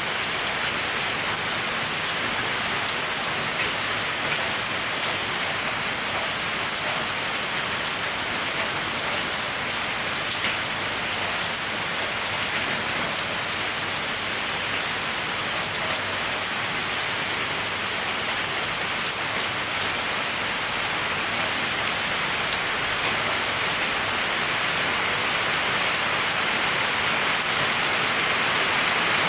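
Steady rainfall: an even hiss of rain with scattered faint drop ticks, growing slightly louder toward the end.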